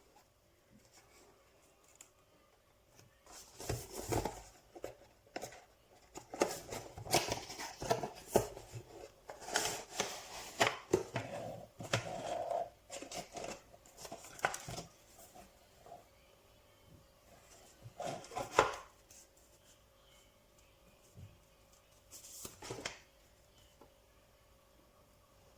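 Irregular clicks, taps and rustling of objects being handled, in a cluster between about four and nineteen seconds in and once more near the end.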